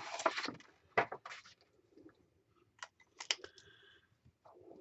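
Scattered short taps, scratches and rustles of a pen and paper being handled on a craft table, with a brief squeak about three seconds in.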